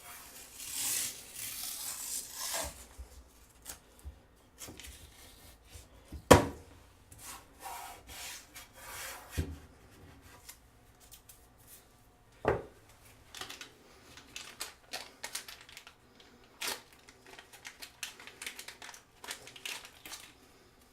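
Hands working at something: rubbing, rustling and tearing sounds with scattered clicks and a few sharp knocks, the loudest about six seconds in.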